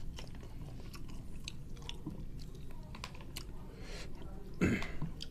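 Close-miked chewing and mouth sounds of a person eating rice and food, with small clicks of a plastic spoon against a plastic soup bowl. One louder sound comes just before the end.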